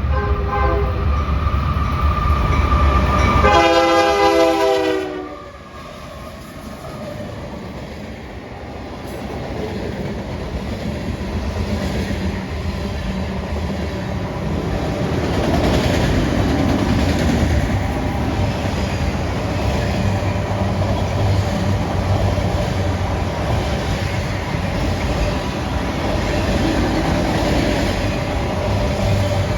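Diesel locomotive horn sounding a short blast and then a longer, louder one as the train comes in fast. After the horn, the train's cars roll past with steady wheel-on-rail clatter that grows louder about ten seconds in and keeps on.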